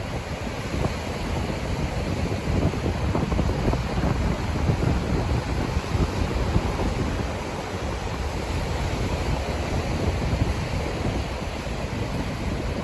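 Wind buffeting the microphone in uneven gusts over the wash of surf on a beach.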